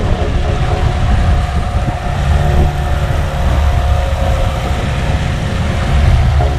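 Tohatsu 18 hp outboard motor running steadily with the boat under way, with low wind rumble on the microphone.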